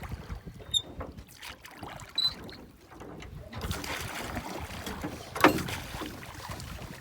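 Water splashing and irregular knocks around a small boat on the water, the loudest surge about five and a half seconds in, with a few short high squeaks.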